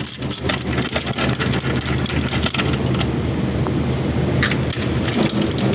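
A steady low engine drone with frequent short metallic clinks and taps over it.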